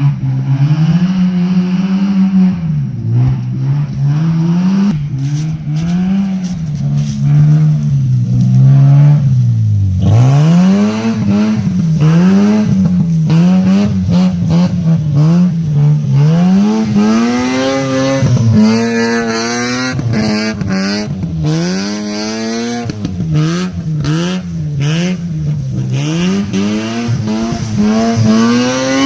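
Mazda RX-7 rally car's six-port rotary engine being driven hard, revving up and falling back over and over, its pitch rising and dropping every second or two.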